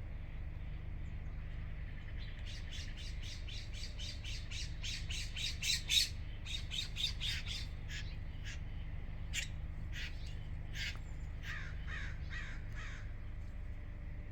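Birds fighting and calling harshly: a fast run of sharp calls, about five a second, starts about two seconds in and peaks around six seconds. Scattered single calls and a few falling calls follow, over a steady low hum.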